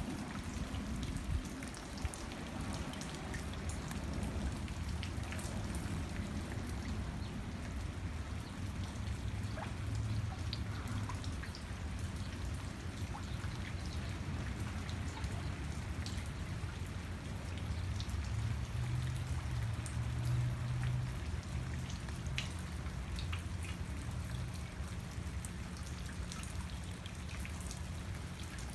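Steady rain falling, with scattered individual drops ticking sharply over a continuous hiss, and a low rumble underneath.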